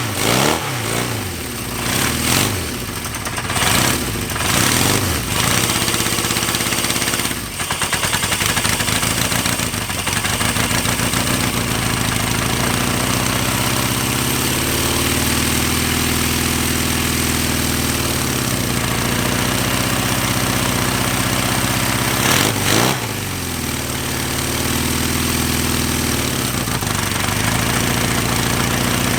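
1975 Honda CB550's air-cooled inline-four engine running: revved in a quick series of blips at first, then settling to an idle whose speed rises and falls, with one more short blip near the end.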